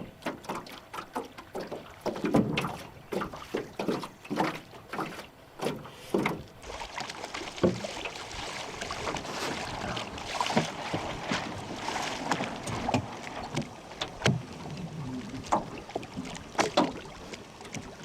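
Irregular knocks and clatter from a small plywood sailing dinghy and its gear, over a steady rush of noise; the sound changes abruptly about six and a half seconds in.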